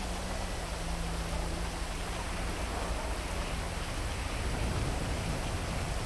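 Heavy rain falling steadily, an even hiss with no single drops standing out. A low steady hum runs under it and stops about four seconds in.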